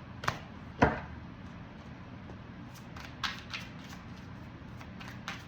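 Tarot cards being handled and laid down: a few sharp card snaps and taps, the loudest about a second in, with a couple more around three seconds in.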